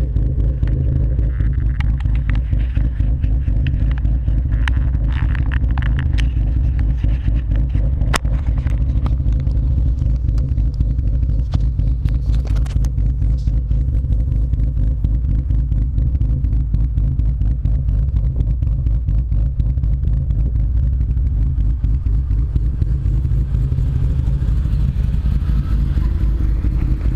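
BMW S50B32 3.2-litre straight-six running through a B&B catback exhaust, a steady low exhaust note, with scattered clicks and rattles in the first half. Near the end the revs climb.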